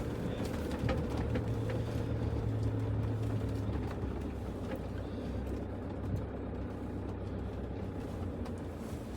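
A motor vehicle engine running steadily with a low hum, a little louder in the first few seconds and then easing off.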